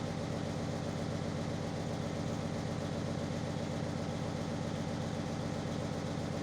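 Kubota ZL600 two-cylinder diesel engine running steadily on vegetable oil fuel, with an even, unchanging rhythmic beat.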